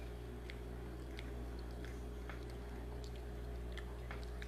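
Someone chewing food close to the microphone: faint, irregular wet clicks over a steady low hum.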